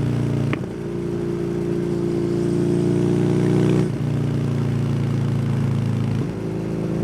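Kawasaki W800's air-cooled parallel-twin engine running through an SC Project exhaust while riding. The note steps up about half a second in, climbs slowly, drops abruptly about four seconds in, and steps up again a little after six seconds, as with throttle and gear changes.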